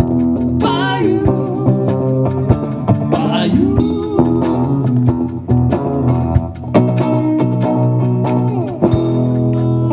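Live rock band playing a blues-rock song: electric guitar and bass guitar over a steady beat, with sung vocal phrases in the first half.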